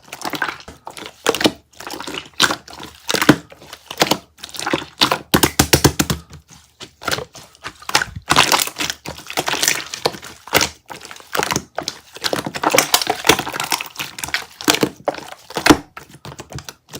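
Close, dense crackling and crunching: a quick, irregular run of short cracks and crinkles that goes on throughout.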